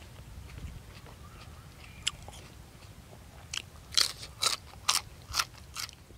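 Close-up crunching of a person biting into and chewing a raw green vegetable: about six sharp, crisp crunches in quick succession in the second half, with a single faint click before them.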